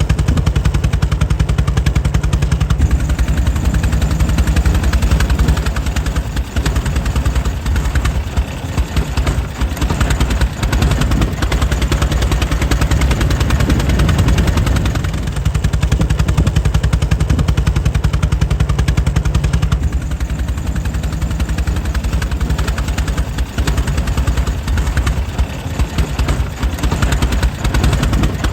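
Air-cooled engine of a 1904 Mitchell running steadily, a fast, even train of exhaust beats.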